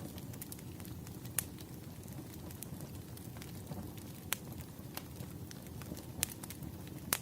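Fireplace fire crackling: a steady low rumble with scattered small ticks and a few sharp pops, the loudest about one, four, six and seven seconds in.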